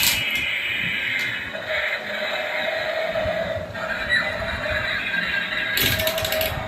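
Battery-powered toy fighter jet playing its built-in electronic music and sound effects, with a sharp click at the start and a rattling burst near the end.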